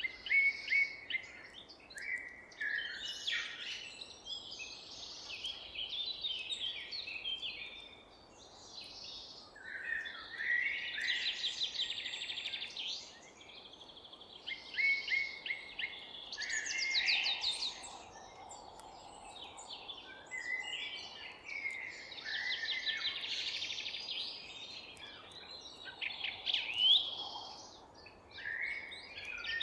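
Several songbirds singing and chirping at once, with rapid trills and quick chirp series overlapping without a break, over a faint steady background hiss.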